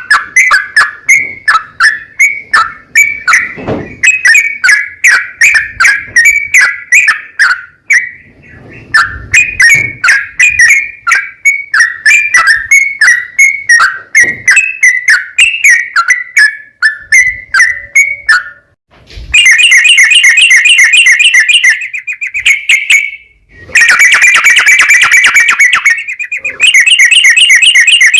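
Yellow-vented bulbul (trucukan) singing loudly: a run of quick, repeated chirping notes, several a second. From about two-thirds in come long, very fast rolling trills in three bouts, the 'ropel panjang' that bird keepers play as a lure to get other trucukan to sing back.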